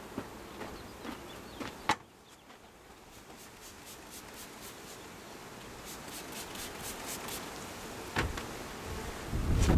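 Honeybees buzzing around an opened hive, with a sharp knock about two seconds in, another about eight seconds in, and a loud low rumble near the end.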